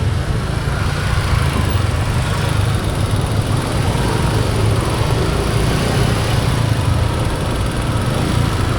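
Motor scooter engine running steadily while riding, with a constant low hum and road noise.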